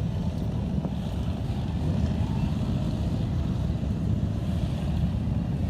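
Motorcycle riding at speed: a steady low engine and road rumble with wind buffeting the microphone.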